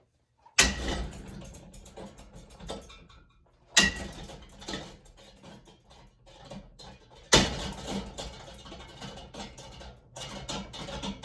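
Three hard impacts on a powered, spinning ceiling fan, about three seconds apart, each followed by a rapid rattling clatter of metal parts.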